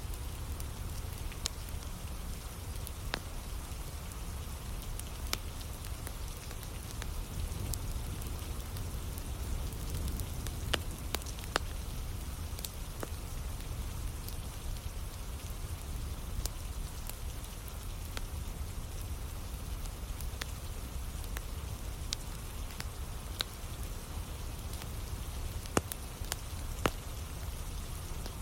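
Steady rain falling together with a crackling wood campfire: an even hiss over a low rumble, with sharp pops scattered every few seconds.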